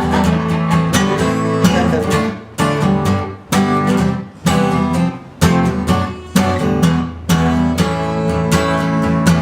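Acoustic guitar strummed in a tango rhythm as an instrumental break, with chords stopped short and struck again sharply several times in the middle of the passage.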